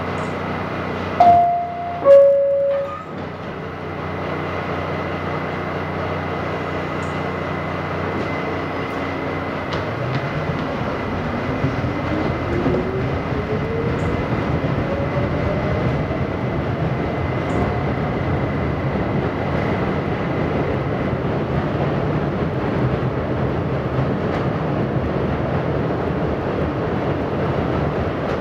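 R68 subway car's two-tone door chime, a higher note then a lower one, about a second in and the loudest sound. From about ten seconds in the train pulls away: the traction motor's whine rises steadily in pitch as the car accelerates, over the steady running noise of the train.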